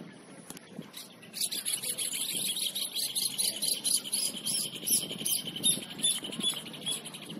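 A songbird singing a long, fast run of high chirps and trills that starts about a second in and stops near the end.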